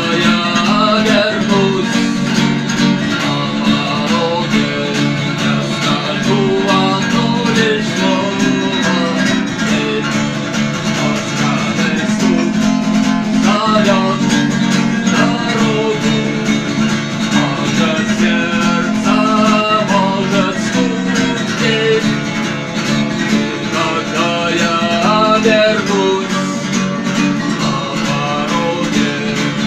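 Guitar music with a steady, even rhythm.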